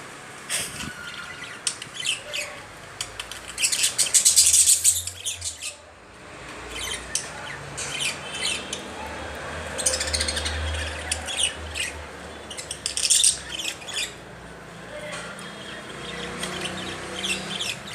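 Small pet parrots chirping and squawking in flurries of rapid, high chatter, busiest about four seconds in and again around ten to thirteen seconds.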